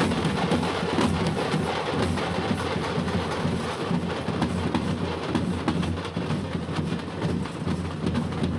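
Tamate frame drums beaten with sticks by a drum group, playing a fast, dense rhythm.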